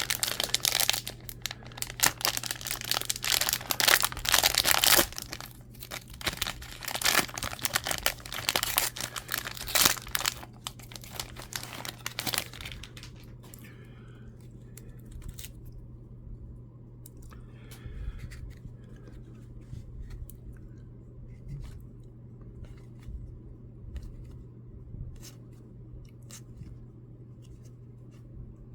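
A Topps hanger pack's wrapper being torn open and crinkled for about twelve seconds, then the quieter clicks and shuffles of the cards being handled, over a low steady hum.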